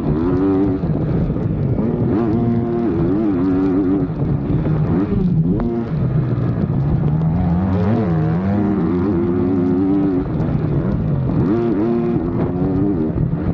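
Motocross dirt bike engines revving up and down over and over, the pitch climbing and dropping with throttle and gear changes, with more than one engine heard at once.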